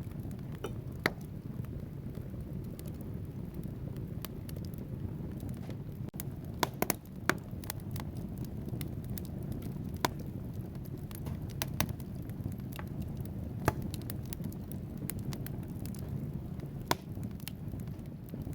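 Wood fire burning in a fireplace: a steady low rumble of flames with sharp, irregular crackles and pops from the logs, a quick cluster of pops about seven seconds in.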